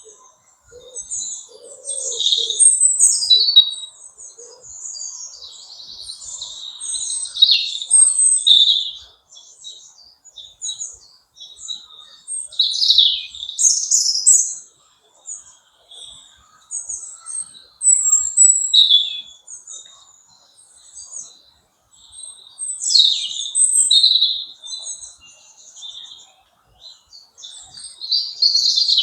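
Several songbirds singing and chirping in bursts, high-pitched twittering and trills with short pauses between phrases. A few lower calls sound in the first few seconds.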